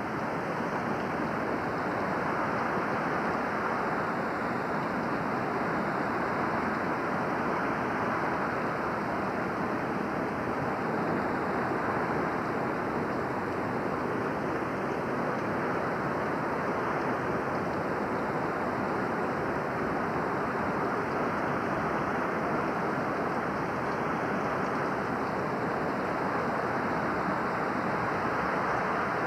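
Steady rushing of floodwater from the North Fork Wilson River in flood, pouring around and under a house.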